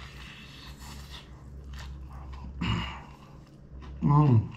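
Biting into and chewing a piece of crispy-skinned fried chicken, with a crunchy rustle in the first second. Two short voiced hums from the eater follow, a softer one near the middle and a louder one about four seconds in, falling in pitch.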